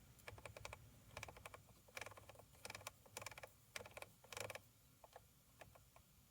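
Faint clicking from the detents of a 2012 Chevrolet Equinox's radio control knob being turned in short spurts, several quick clicks to a spurt, thinning out toward the end.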